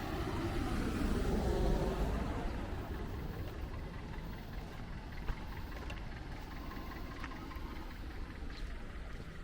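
A motor vehicle passing by: its engine and tyre noise swell over the first two seconds and then fade, leaving a steady background hum with a single click about five seconds in.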